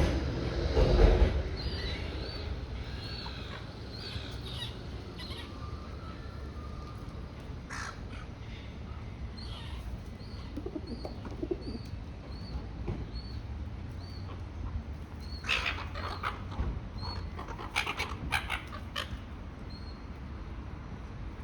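Birds calling: a short, high call repeated again and again, under a second apart, and louder harsh squawks about two-thirds of the way in. A low rumble of wind or handling at the very start.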